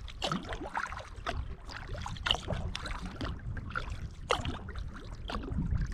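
Kayak paddle strokes in lake water: irregular small splashes and drips from the blades, over a steady low rumble.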